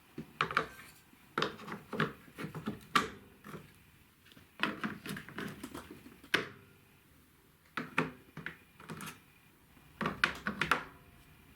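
Marbles rolling and clattering down a plastic TrixTrack marble run: bursts of quick clicks and knocks against the track pieces, with short pauses between.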